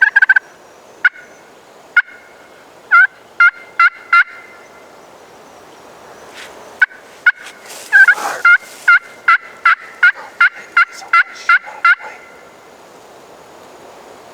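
Wild turkey yelping: loud runs of short, sharp notes, a few scattered ones and a run of four first, then a long even run of about fifteen in the second half.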